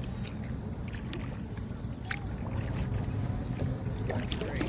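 Kayak paddling: water trickling and dripping off the paddle, with small splashes and knocks over a steady low rumble.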